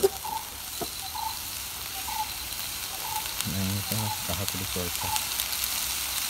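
Chicken strips and sliced bell peppers sizzling steadily in a nonstick grill pan, with small scattered spits and crackles. A faint voice murmurs briefly around the middle.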